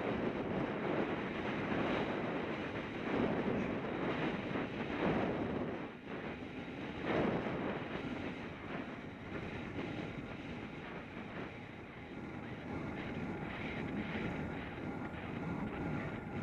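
Wind buffeting the microphone, a rushing noise that swells and eases every few seconds.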